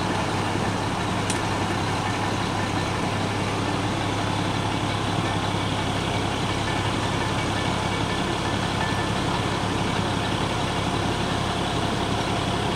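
Heavy truck engine running steadily at constant speed: a continuous low hum with an even rush of noise above it.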